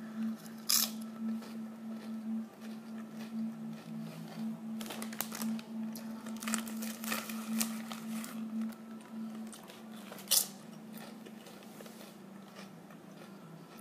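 Lay's sour cream and onion potato chip bitten and chewed close to the microphone, with irregular sharp crunches that thin out after about ten seconds. A steady low hum runs underneath.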